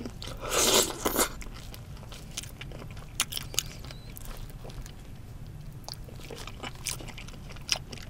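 Close-miked eating of grilled salmon head: a loud crunching bite about half a second in, then scattered soft clicks and smacks of chewing.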